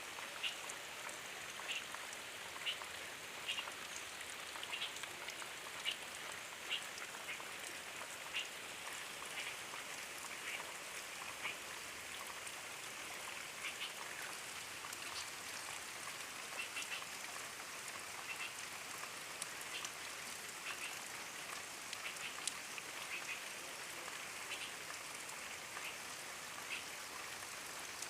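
Gentle rain falling steadily, a soft even hiss. Short high chirps break through it irregularly, about once a second.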